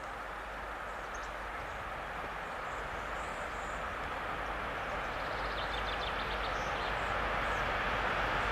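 A train approaching along the line, its running noise growing steadily louder. Faint bird chirps come through about halfway in.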